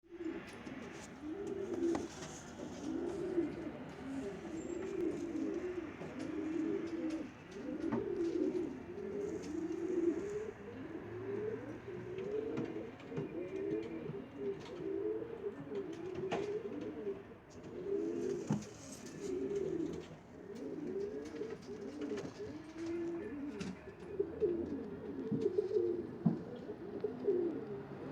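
Several pigeons cooing continuously, their low calls overlapping one another, with a few faint clicks among them.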